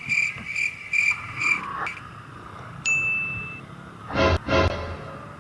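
Electronic beeping, evenly repeated about twice a second, stops under two seconds in. A single high ding follows about three seconds in, then two short loud blasts near the end.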